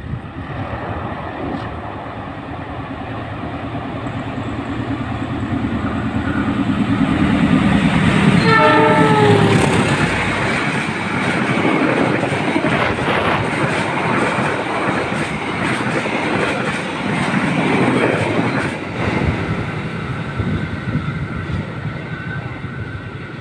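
A passenger train of stainless-steel carriages passing: the locomotive's engine grows louder as it approaches, it sounds a short horn blast about eight seconds in whose pitch drops as it goes by, then the carriage wheels clatter over the rail joints before the sound fades near the end.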